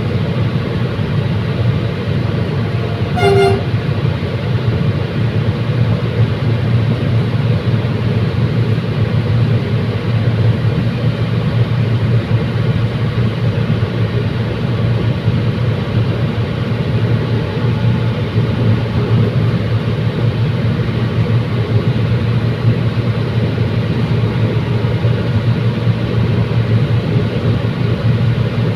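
Commuter train running steadily along the track, a continuous low rumble, with one short horn toot about three seconds in.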